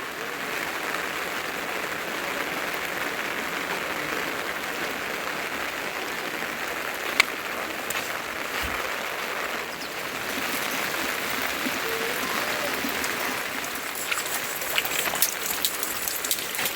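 Steady rainfall, an even hiss of rain, with a single sharp click about seven seconds in and scattered drip-like ticks near the end.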